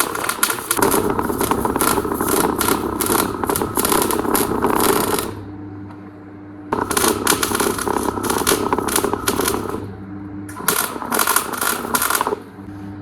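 Electric welder arc crackling in three runs of a few seconds each, with a steady low hum in the short pauses between them.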